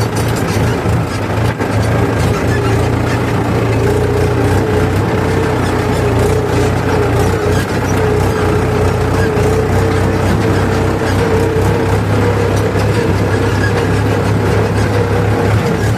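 Heavy diesel machinery engine running steadily at a constant loud level, with a wavering whine above its low drone.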